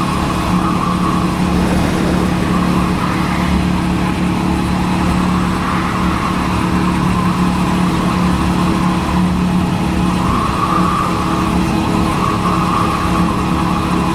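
Motorcycle engine running at a steady cruising speed, its note holding even pitch, heard from a helmet-mounted camera with a haze of wind and road noise over it.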